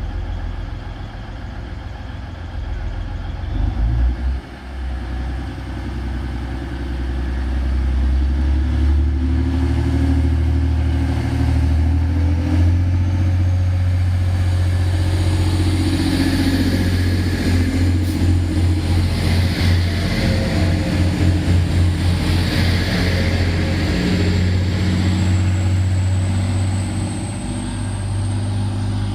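Class 185 diesel multiple unit at the platform with its diesel engines running. About 7 to 8 seconds in, the engines rise to a loud, steady drone as the train powers away, with a faint high whine climbing slowly in pitch. One brief thump about 4 seconds in.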